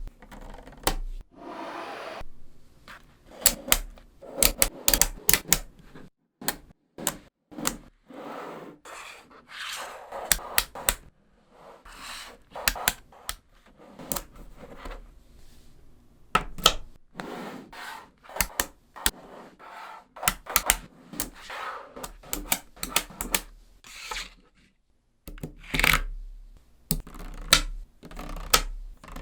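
Small neodymium magnetic balls snapping and clicking together in irregular runs of sharp clicks, with rolling and rubbing sounds between them as they are pushed into place.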